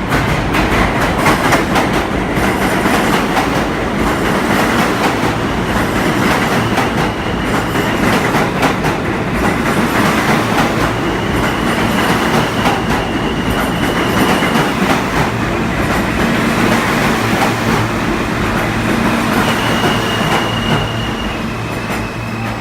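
New York City subway train running along the track, its wheels clattering over the rail joints, with a high wheel squeal twice, about halfway through and near the end.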